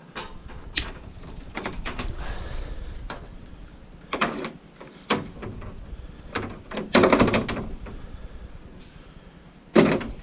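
Scrap metal being handled and pulled apart: irregular knocks, clanks and scrapes, with a longer rattling scrape past the middle and a sharp clank near the end.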